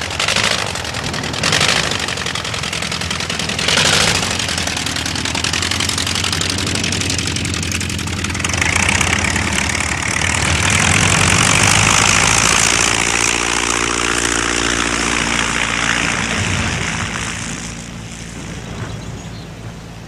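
Propeller aeroplane engine starting with a few coughs, then running steadily. It grows louder in the middle and fades away near the end.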